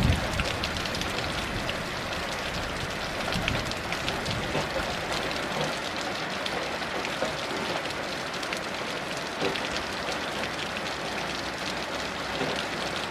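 Steady heavy rain falling, with individual drops ticking close by through the even hiss.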